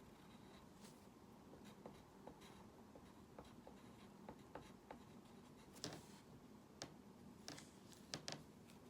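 Faint drawing sounds: a drawing tool tapping and stroking on its surface in short, scattered ticks, with a few sharper taps in the last three seconds.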